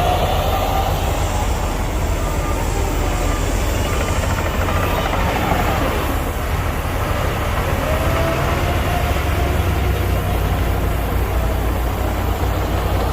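Heavy diesel machinery running, a deep steady engine rumble with a whine that rises and falls in pitch a couple of times.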